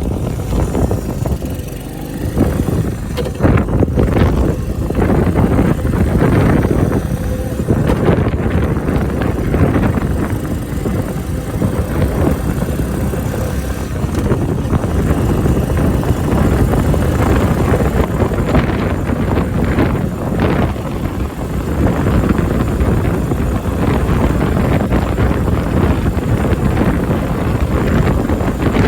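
Honda Benly CS90's small single-cylinder four-stroke engine running while the bike is ridden, with strong wind buffeting the microphone.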